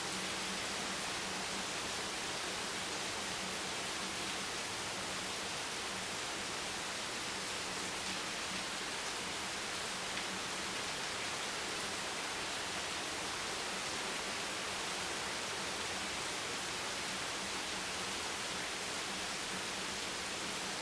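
Steady rain: an even, unbroken hiss with no single drops, thunder or gusts standing out.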